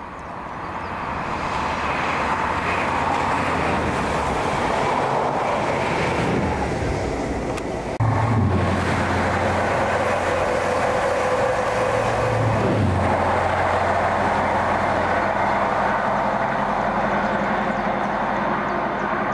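A train passing close by, a loud steady rush of wheels on rail that builds over the first couple of seconds. A low engine drone joins in abruptly about eight seconds in and carries on.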